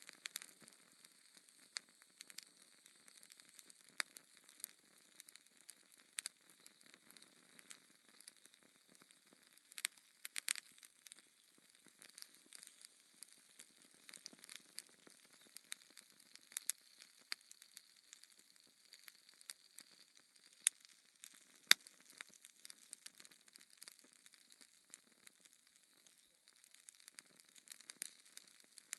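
Wood fire crackling: a soft, steady hiss with irregular sharp pops throughout, and two louder pops about a second apart a little past two-thirds of the way through.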